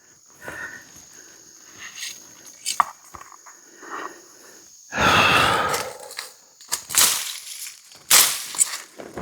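Machete hacking a way through dense brush: a loud rustle of vegetation about five seconds in, then sharp swishing chops at about seven and eight seconds. A steady high insect buzz runs under the first half.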